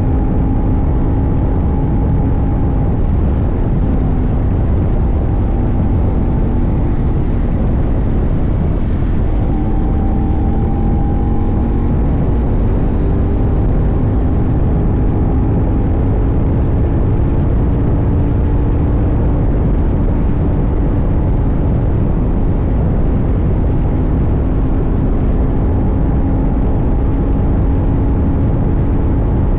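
CFMoto 800NK's parallel-twin engine running at a steady cruise, its pitch drifting slowly up and down, under a heavy rumble of wind on the tank-mounted microphone.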